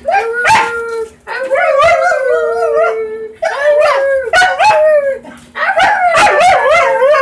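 Pet dog howling: four long, wavering howls with short breaks between them.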